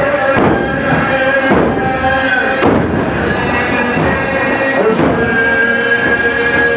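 A male reciter chants a drawn-out Muharram lament on long held notes. Regular thumps land about once a second, the mourners beating their chests in time.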